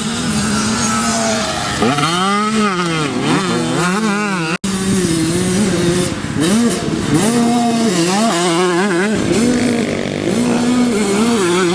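GasGas MC85 85cc two-stroke motocross bike engine revving hard, its pitch repeatedly climbing and dropping as it accelerates, shifts and chops the throttle. The sound breaks off abruptly for an instant about four and a half seconds in.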